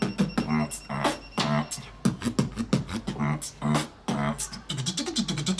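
Rhythmic hip-hop-style beat of sharp percussive clicks and low hummed or bass tones, like beatboxing, with a fast run of hi-hat-like clicks near the end.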